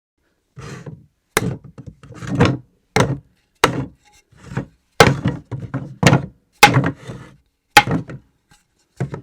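Objects dropped onto a floor one after another at irregular intervals: about a dozen sharp thuds, several followed by quick smaller bounces. The hits stop near the end.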